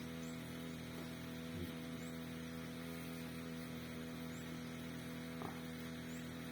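A steady low electrical-type hum made of several constant tones over a faint hiss, with two faint short sounds, one about a second and a half in and one about five and a half seconds in.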